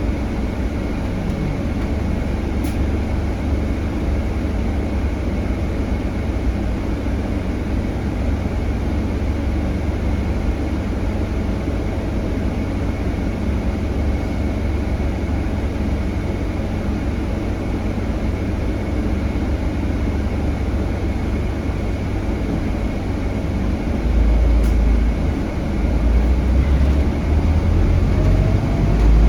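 A Scania K320HB city bus heard from inside while it drives: its Scania DC9 five-cylinder diesel runs under steady road and tyre noise, with a faint steady high whine. The low engine sound grows heavier about five seconds from the end.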